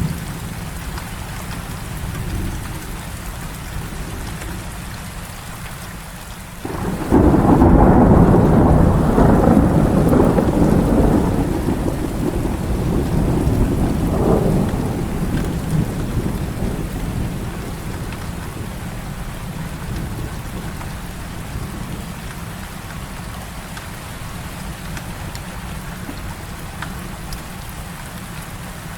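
Heavy rain falling steadily, with a low rumble under it. About seven seconds in a loud roll of thunder breaks in suddenly, swells again a few seconds later, then fades back under the rain.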